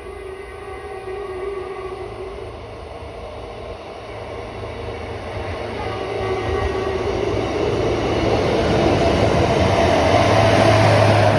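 A train running on the line at the station, its rumble of wheels and motors growing steadily louder as it draws near, loudest near the end.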